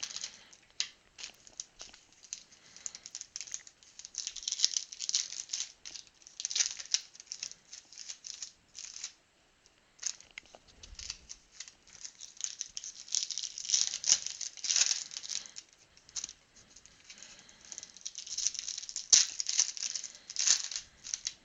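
Foil trading-card pack wrappers crinkling and tearing as they are handled and opened by hand, in irregular bursts with a short lull about nine seconds in.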